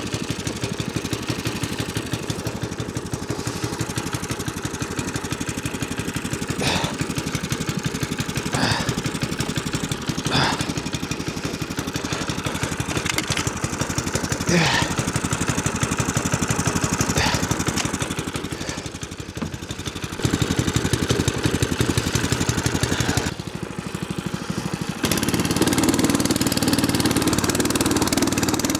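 Small snow machine's engine running just after being started from frozen, with a steady rapid firing beat and a few short sharp noises in the first half. It eases off twice in the second half, then runs louder and harder for the last few seconds.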